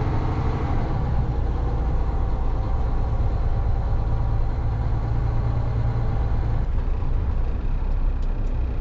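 Truck engine running steadily as it pulls in slowly, a low drone whose note drops about seven seconds in.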